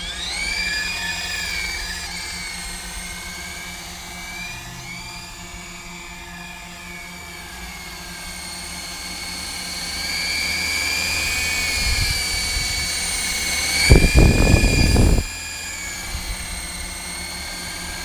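Syma S33 toy RC helicopter flying, its small electric rotor motors whining high, the pitch gliding up and down with the throttle. About fourteen seconds in there is a loud burst of noise lasting about a second.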